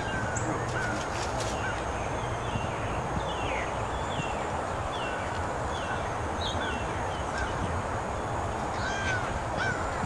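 Wild birds calling: a run of short, downward-slurred notes repeated about twice a second, over a steady background rush.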